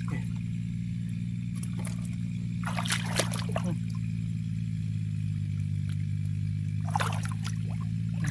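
Shallow muddy water splashing in short bursts, about two seconds in, around three seconds, near seven seconds and again at the end, over a steady low hum.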